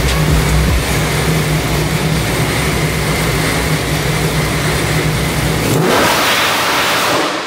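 ProCharger-boosted small-block Ford V8 in a Mustang running on a hub dyno with tailpipe exhaust, a steady loud engine note. About six seconds in the low engine note drops away and a rushing hiss takes over.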